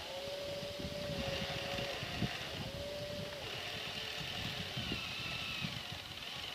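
Motors of a radio-controlled scale model dragline excavator whining steadily in two stretches, over a rough rumble with scattered knocks and wind noise on the microphone.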